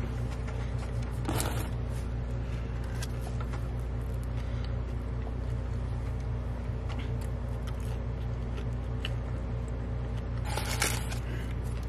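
Car engine running, heard inside the cabin as a steady low hum, with brief rustling scrapes about a second and a half in and again near the end.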